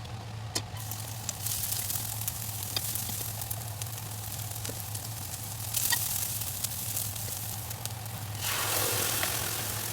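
Onions frying in oil in a wok, a hissing sizzle that starts about a second in and swells louder twice near the end, with scattered sharp ticks through it. A steady low hum runs underneath.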